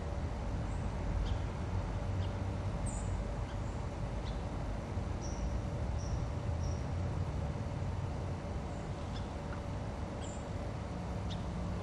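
Small birds giving short high chirps now and then over a steady low rumble and a faint constant hum.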